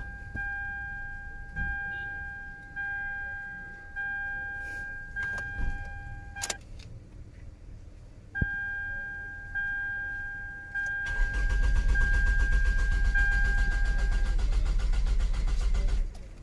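Toyota Camry's dashboard warning chime dinging about once a second, with a couple of sharp clicks, then the starter cranking the engine for about five seconds before it cuts off suddenly without the engine catching: the car's no-start fault.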